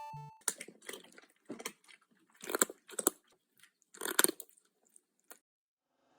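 Irregular crunching, crinkling noises in short bursts, loudest about two and a half and four seconds in, after a short end of background music.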